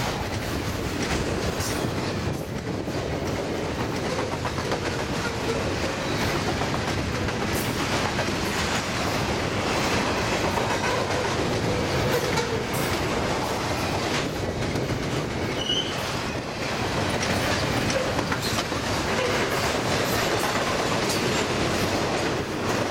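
Double-stack container well cars of an intermodal freight train rolling past. A steady rumble and rattle, with wheels clacking over rail joints and a few brief faint wheel squeals.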